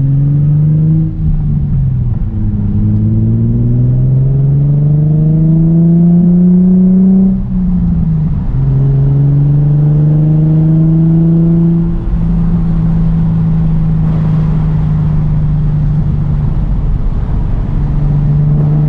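Nissan 350Z's 3.5-litre V6 running through a new Tomei exhaust, pulling up through the gears. The engine note climbs and drops back at shifts about a second in and again about seven and a half seconds in, then holds a steady note at cruise with brief dips near twelve and seventeen seconds.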